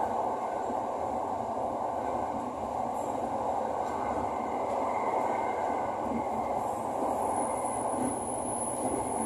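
Electric commuter train of the Light Red Line heard from inside the carriage while running: a steady rumble of wheels on rail and cabin noise. A thin, high whine comes in about seven seconds in.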